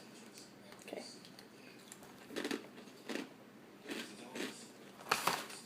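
Crunchy Asiago and cheddar cheese crisp being bitten and chewed: a few short, separate crunches over several seconds.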